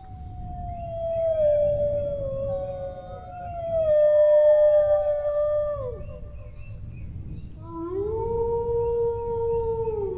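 Dogs howling: long, drawn-out howls that slide down in pitch, two or more overlapping at different pitches. Near the end a new howl rises and holds steady.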